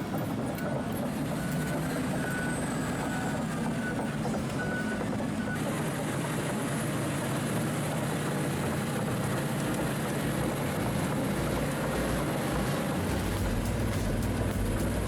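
Heavy earthmoving machine engine running steadily, with a reversing alarm beeping in short repeated tones for the first five seconds or so. The sound changes abruptly about five and a half seconds in, and a deeper engine rumble grows louder near the end.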